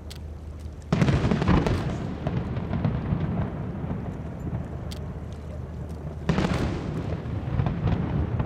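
Aerial fireworks shells bursting: two sudden loud booms, about a second in and again near six seconds. Each is followed by a long rumbling tail scattered with crackles.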